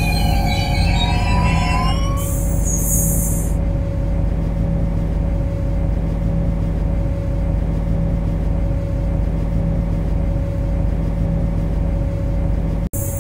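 MTR C-Train metro train running on the track, heard from the cab: a steady low rumble with a constant hum, with wheels squealing in gliding tones for the first two seconds, then fading. A short high hiss comes in about two seconds in, and the sound cuts off abruptly near the end.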